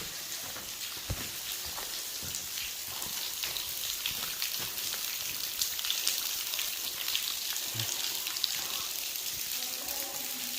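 Water dripping and trickling inside a disused railway tunnel: a steady hissing patter dense with small ticks of falling drops.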